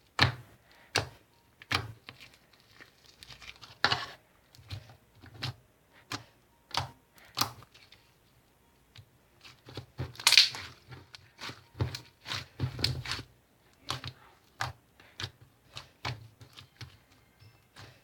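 Slime being squeezed and handled by hand, giving irregular sharp clicks, pops and crackles, about one or two a second, with the loudest crackle about ten seconds in.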